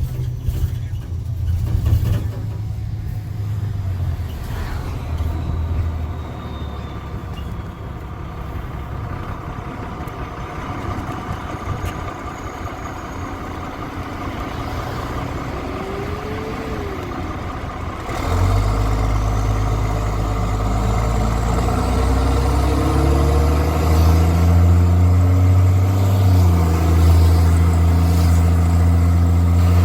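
Straight-piped Cummins C8.3 diesel in a school bus, running at a moderate level at first. About two-thirds of the way in it suddenly gets much louder and throatier as the bus accelerates, the exhaust note climbing in pitch for a few seconds and then holding steady.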